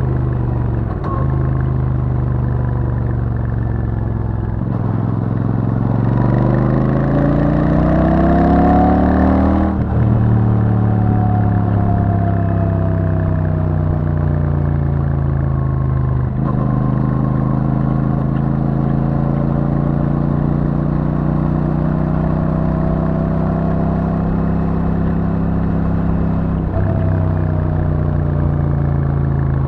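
Royal Enfield Super Meteor 650's parallel-twin engine through its stock exhaust while riding. The revs climb for about five seconds and break off sharply near the ten-second mark, as at a gear change. The pitch then sinks slowly and settles into a steady cruise, with two more short breaks.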